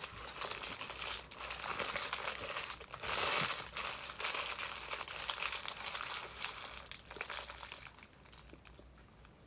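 Paper fast-food burger wrapper being crinkled and folded back by hand, a dense rustling with many small crackles, loudest about three seconds in and dying away near the end.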